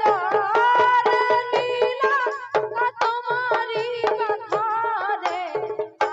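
Instrumental interlude of Indian devotional folk music (devi jas): a melodic instrument plays a wavering tune over quick, steady hand-drum beats.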